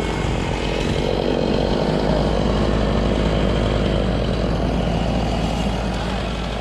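An engine running steadily at high speed.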